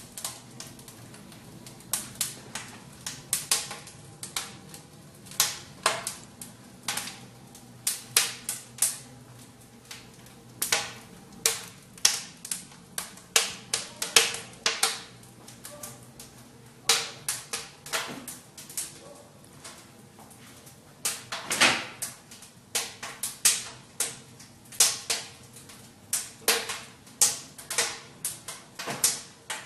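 Wood fire crackling in a fireplace: sharp, irregular pops and snaps of burning logs, several a second at uneven spacing, with a few louder cracks.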